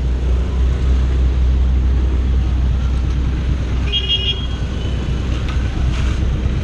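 Steady low rumble of road traffic, with a short car horn toot about four seconds in.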